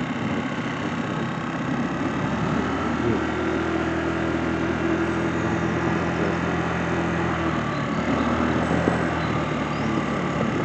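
A motor vehicle's engine running steadily over a constant background of road or wind noise. A steady engine hum rises about three seconds in and fades near eight seconds.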